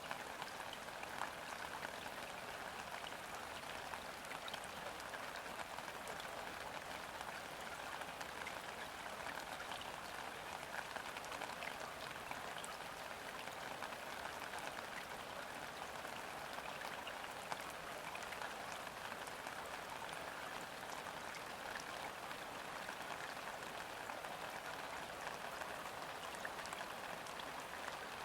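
Steady rain falling onto a river's surface: an even hiss dotted with many small drop ticks. No thunder is heard.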